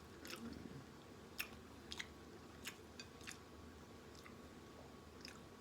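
Close-up mouth sounds of a person chewing a pork chop sandwich: faint, short clicks and smacks at an irregular pace.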